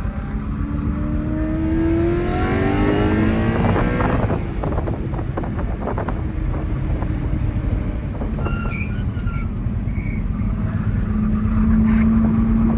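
Mercedes C63 AMG's 6.2-litre V8 through a cat- and resonator-delete exhaust, pulling hard with its pitch rising for about four seconds. It then comes off the throttle with a run of sharp pops and drones steadily, with a few brief high squeals, before pulling again near the end.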